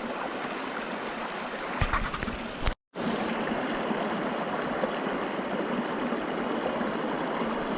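Steady rushing of a river running high after floods. There are a few low knocks about two seconds in, and the sound cuts out completely for a moment just before three seconds.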